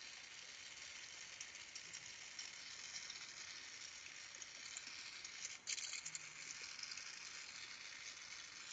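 Faint, steady hiss of a Carlisle glassworking torch flame, with a brief dip and a few light clicks about five and a half seconds in.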